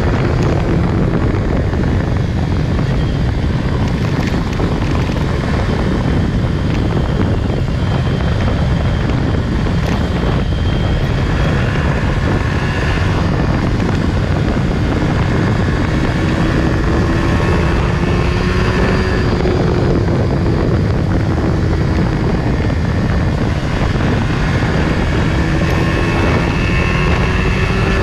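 Yamaha R15 V3's 155 cc single-cylinder engine running steadily through its stock exhaust while riding, with the engine note wavering slightly as speed changes, mixed with wind rush on the GoPro.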